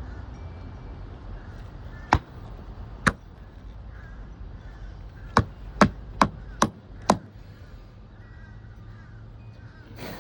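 Seven sharp knocks over a low, steady wind rumble: two about a second apart, then five in quick succession at about two a second.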